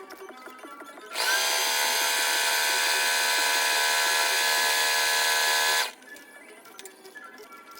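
Heavy-duty sewing machine running in one steady whine for about five seconds, stitching hair bundles. It starts about a second in and stops suddenly near the end.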